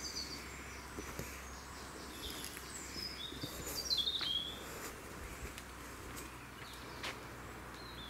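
Woodland birds chirping and singing, with a quick run of loud, high, falling chirps about halfway through, over faint outdoor rumble.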